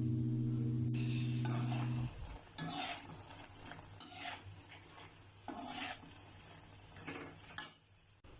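Background music that stops about two seconds in, followed by a spoon stirring and scraping in a cooking pan, one stroke about every second and a half.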